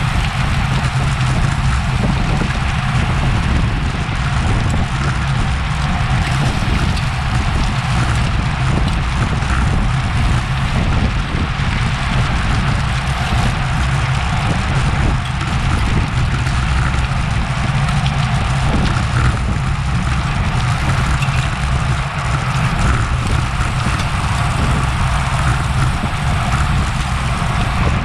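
Steady rush of wind over a bike-mounted action camera's microphone at racing speed, with road and tyre noise underneath, unbroken throughout.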